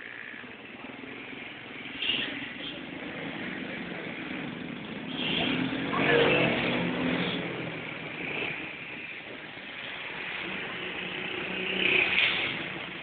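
A motor vehicle passes by, its engine swelling and fading about six seconds in, over steady background noise.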